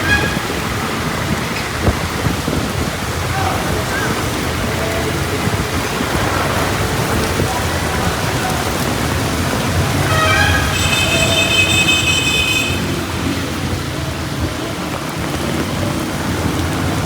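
Heavy rain falling steadily, a dense hiss with no letup. Just past the middle, a shrill, high tone lasts about two seconds over the rain.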